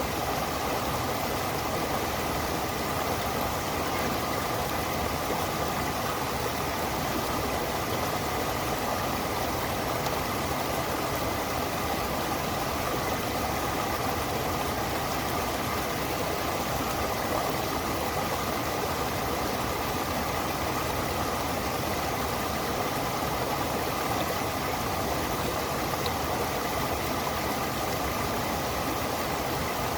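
Stream water flowing and splashing over rocks, a steady rushing sound with no change.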